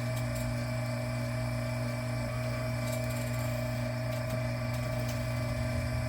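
Electric wire stripping machine's motor running steadily, a constant even hum.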